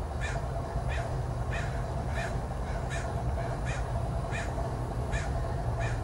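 A bird calling over and over at an even pace, short calls about three every two seconds, over a steady low rumble.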